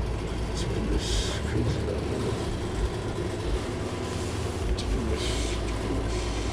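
Steady low rumble of outdoor city background noise, with two short hisses, one about a second in and one near five seconds.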